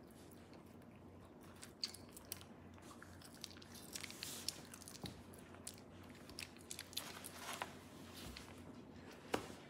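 Chewing a bite of homemade pepperoni pizza close to the microphone: scattered small crunches and mouth clicks. A single sharp click about nine seconds in is the loudest sound.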